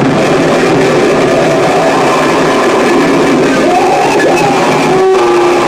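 Harsh noise music: a loud, dense wall of distorted noise. Wavering pitched squeals rise out of it about four seconds in. It dips for an instant just past five seconds, and a steady tone holds after the dip.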